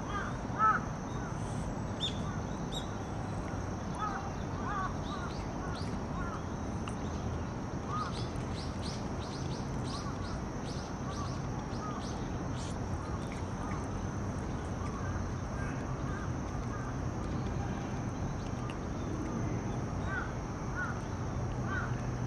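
Birds calling outdoors: scattered short chirps, and a quick run of rising high calls about eight to thirteen seconds in, over a steady high whine and a low background rumble. One brief loud sound comes about half a second in.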